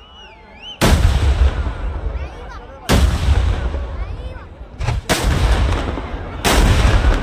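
Kerala temple-festival fireworks (vedikkettu) going off in five loud, deep booms, the first about a second in and two close together a little before the end. Each boom rumbles away over a second or more. A wavering whistle comes just before the first blast.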